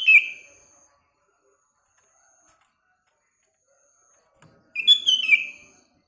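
Sooty-headed bulbul (kutilang) singing short phrases: one ends just after the start and another comes about five seconds in. Faint thin high whistles from another bird sound in the gaps.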